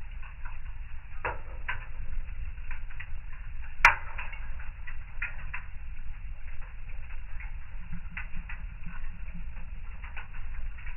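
Fire crackling in a fireplace: irregular small pops and snaps, with one louder pop about four seconds in, over a steady low rumble.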